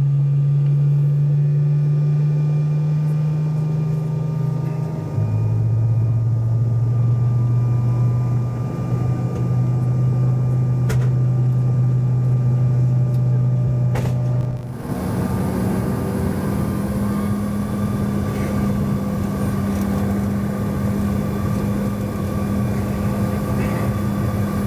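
Steady low drone inside a Bombardier CRJ-900 cabin from the aircraft's engines and air systems, heard with the aircraft on the ground before takeoff. Its pitch steps down about five seconds in. About fifteen seconds in it steps up to a higher, louder, noisier hum.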